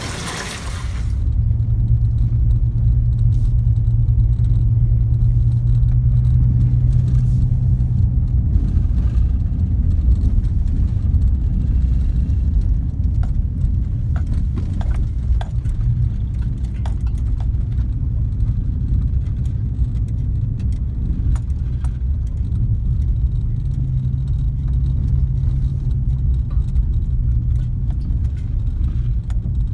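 A garbage truck's engine running steadily with a low, even rumble, with scattered light clicks and rattles a third of the way in.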